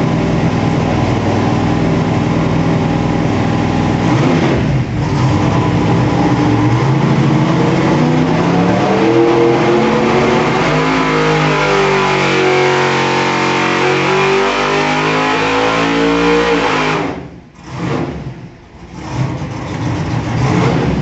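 632 cubic-inch big-block Chevrolet V8 running on an engine dyno during a pull: it runs steady at first, then its revs climb for several seconds under load. Near the end the throttle closes and the engine drops back, its sound dipping sharply twice.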